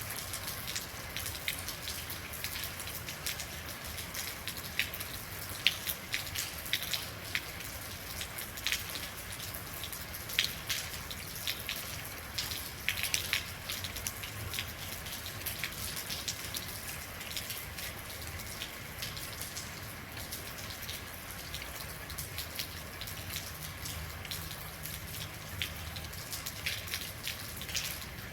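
Steady rain, with many individual drops ticking sharply on a hard surface over a continuous hiss.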